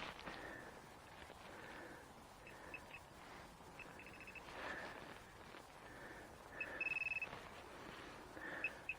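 Metal-detecting pinpointer beeping as it is held against soil clods to find a buried target: short high beeps in little clusters around three and four seconds in, then a longer steady tone near seven seconds and again at the end. Soft rustles of soil being handled sit between the beeps.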